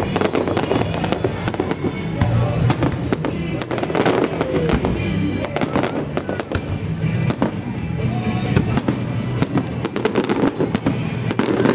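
Aerial fireworks shells bursting, many bangs in quick succession, with music playing along.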